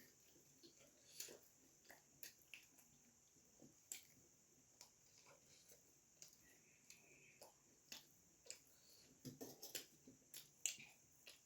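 Faint eating sounds of puri and vegetable curry being chewed: scattered soft clicks and mouth smacks, busiest and loudest about nine to eleven seconds in.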